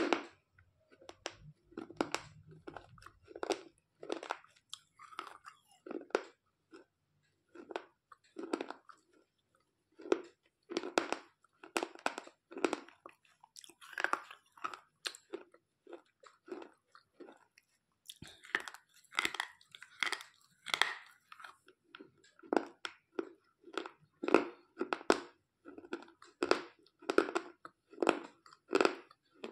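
Slate pencils being bitten and chewed: a steady run of short, sharp crunches, about one or two a second.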